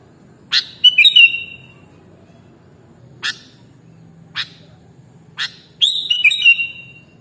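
Sooty-headed bulbul (kutilang) singing: a few sharp single call notes, and twice a quick phrase of clear whistled notes, about a second in and again near the end.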